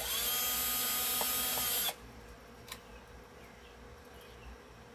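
Power drill spinning up with a rising whine, running steadily for about two seconds while drilling a hole, then stopping abruptly. A single click follows about a second later.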